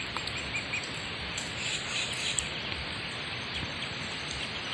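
Outdoor rural ambience: small birds chirping faintly and repeatedly over a steady background hiss.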